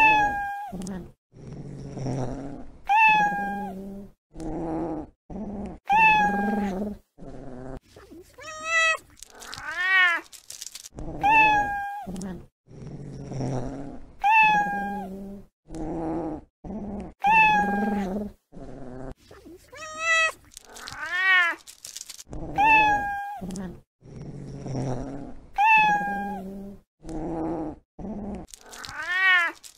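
Domestic cats meowing over and over, about one short meow every second or two. Some meows arch up and down in pitch, others fall. Lower, rougher cat sounds come between the meows.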